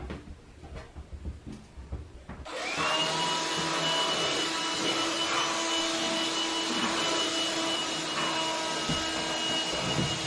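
A few low knocks, then an electric appliance motor switches on about two and a half seconds in, its whine rising quickly and then running steadily with a high tone.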